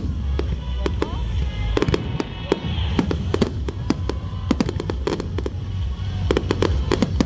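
Aerial fireworks shells bursting in a dense, irregular series of bangs and crackles over a steady low rumble.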